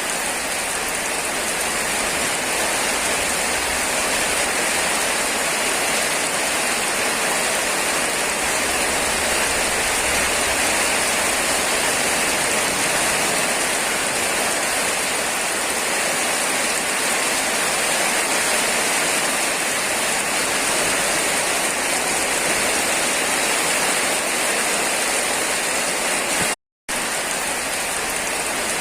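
Steady rain falling, a continuous even hiss of drops, cut off for a split second near the end.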